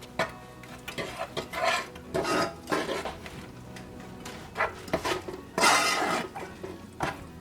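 Kitchen utensils clinking and scraping against bowls and measuring cups as baking ingredients are measured out: a series of irregular clatters, with a longer scrape about six seconds in.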